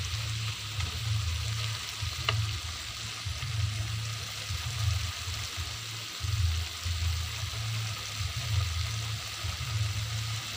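Oyster mushrooms and tempeh sizzling in a metal wok as they are stirred, with a metal spatula giving one sharp scrape against the pan about two seconds in. An uneven low rumble runs underneath.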